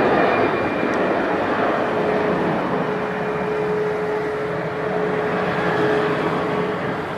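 Jet airliner's engines: a loud, steady rush with a held whine, slowly fading as the aircraft moves away.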